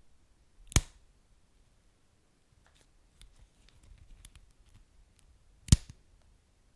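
Wood fire crackling: two sharp pops from the burning logs, one about a second in and a louder one near the end, with faint small crackles between.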